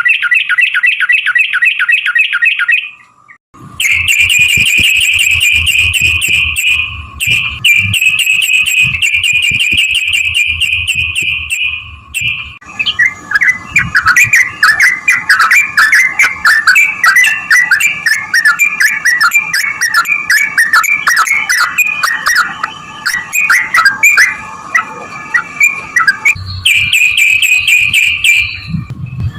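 Yellow-vented bulbul (trucukan) singing long, fast runs of chattering phrases, in several stretches that break off abruptly and restart.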